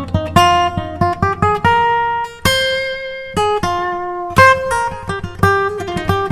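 Background music: acoustic guitar picking a slow melody, with one note left ringing a few seconds partway through.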